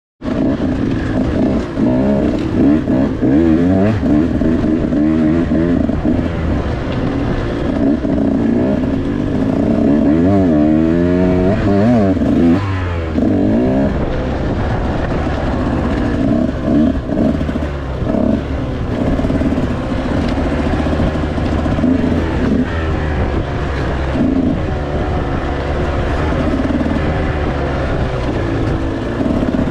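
Dirt bike engine being ridden hard off-road, revving up and down over and over as the throttle opens and closes, with the sharpest swings in pitch about ten to thirteen seconds in.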